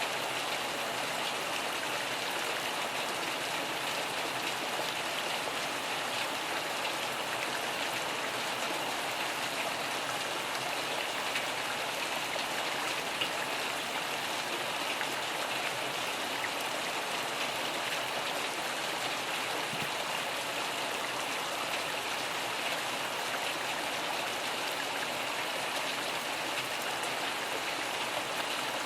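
Steady rain falling, an even unbroken patter with no thunder.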